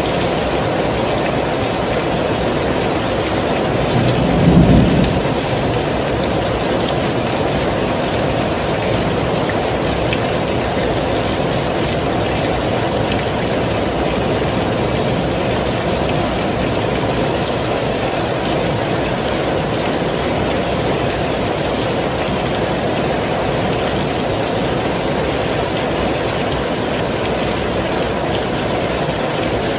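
Heavy rain falling steadily, with a short low rumble of thunder about four seconds in.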